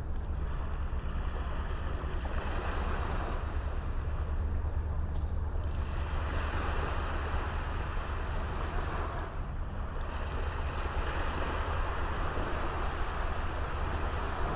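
Waves washing onto a beach, the wash swelling and falling back three times, with a steady low rumble of wind on the microphone.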